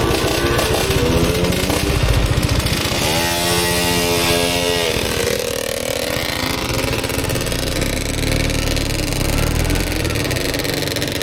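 Motorcycle engine running on the move, with a rushing noise over it. About three seconds in, a steady pitched tone holds for roughly two seconds, then fades.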